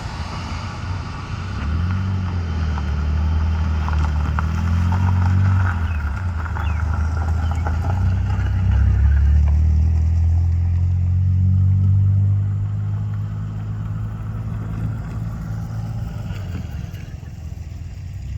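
Low engine hum, probably of a road vehicle, that rises and falls slightly in pitch. It is loudest in the middle and fades near the end.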